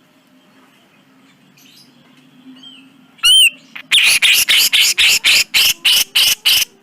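Grey-cheeked bulbul (cucak jenggot) calling: after a quiet start, one loud arched whistled note a little past three seconds in, then a rapid string of about a dozen harsh, scratchy notes, roughly four a second.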